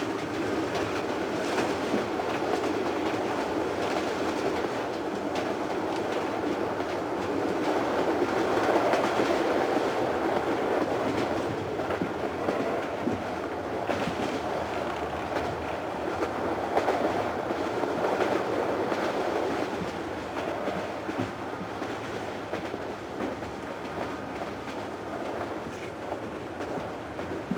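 Train running on the rails: the steady rumble and clatter of a railway carriage in motion, swelling slightly about a third of the way in and easing off in the last few seconds.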